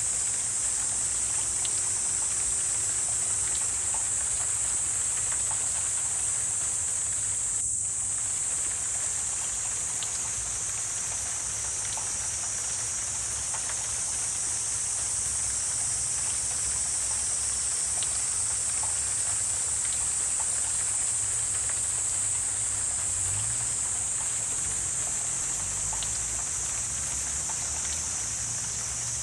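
Wetland ambience dominated by a steady, high-pitched insect chorus, with faint scattered ticks and a low rumble underneath.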